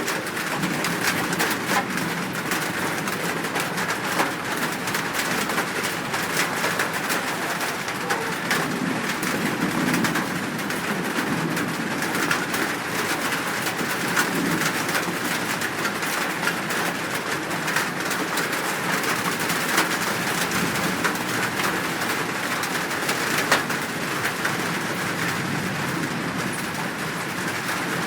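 Steady, dense chorus of birds calling, with doves cooing low beneath it.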